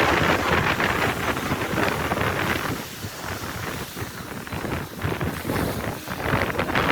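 Wind buffeting the microphone over the wash of the sea around a boat at sea: an uneven rushing that eases about three seconds in and picks up again near the end.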